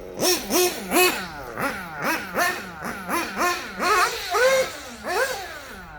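Kyosho Inferno Neo 2.0 nitro buggy's small KE21 nitro engine with a Dynamite 053 tuned pipe, revved in quick blips of throttle, about two a second, the pitch rising and falling on each one.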